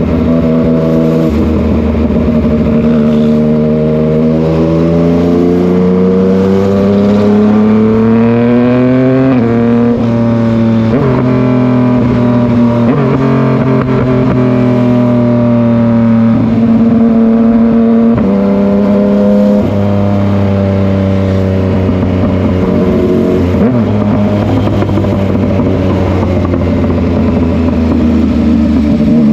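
Yamaha MT-09 three-cylinder motorcycle engine under way, its pitch climbing steadily as it accelerates and then dropping back at gear changes, several times over.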